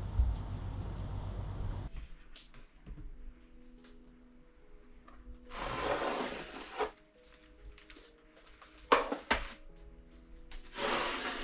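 Soft background music; over it, about halfway through, items are handled while a kitchen cupboard is cleared: a longer noisy sliding sound, then a couple of sharp clicks, then another noisy handling sound near the end. A low rumbling noise in the first two seconds cuts off as the music begins.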